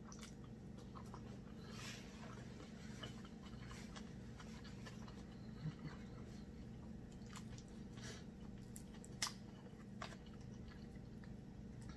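Faint chewing and mouth sounds of someone eating a seafood boil, with scattered small clicks as food is picked apart by hand, over a low steady hum.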